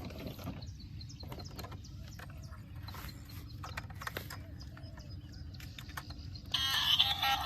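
Scattered light clicks and taps over a low steady rumble, with a few faint chirps; music with synthesised singing comes in about six and a half seconds in.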